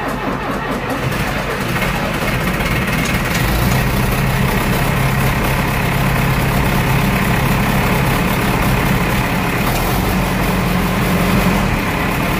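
John Deere 2750 tractor's diesel engine running steadily, just after catching from a cold start without its block heater plugged in; the engine was recently rebuilt with new rings, pistons and sleeves.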